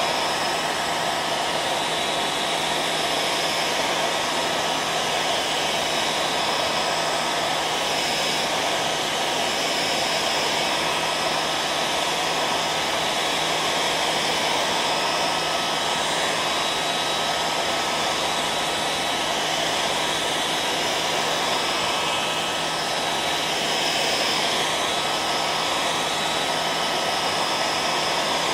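Hair dryer running steadily: an even rushing whoosh of blown air with a faint constant hum from its motor.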